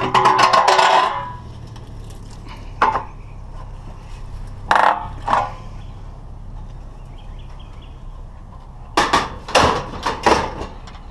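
Scrap metal being bent and handled by hand: a loud rattling metal clatter lasting about a second at the start, then scattered single clanks, and a quick run of clanks near the end.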